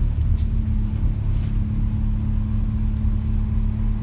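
Inside a moving passenger train: a steady low rumble of the train running, with a constant hum underneath.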